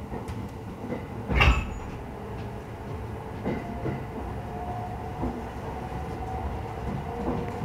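Passenger train running, heard from inside the carriage: a steady rumble of wheels on rail with scattered clicks, and one loud knock about a second and a half in. A faint steady whine comes in about halfway.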